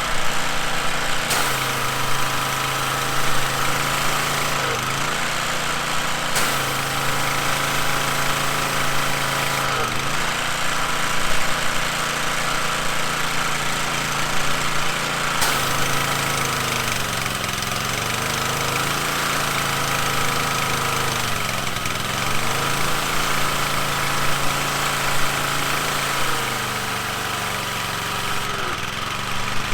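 Coleman Powermate pressure washer's small gasoline engine running, its note shifting every few seconds and its speed sagging and recovering several times in the second half. The owner puts the uneven running down to a carburettor that needs cleaning.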